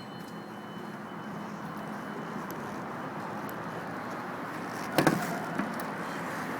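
Audi A4 B5's 1.8T turbocharged four-cylinder engine idling steadily, with one sharp click about five seconds in.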